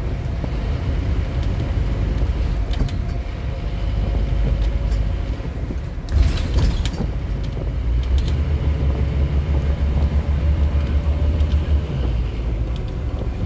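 Scania N230UD OmniCity double-decker bus's diesel engine running under way, heard from on board. There is a short hiss about six seconds in, then the engine note grows heavier and louder for about four seconds before easing off.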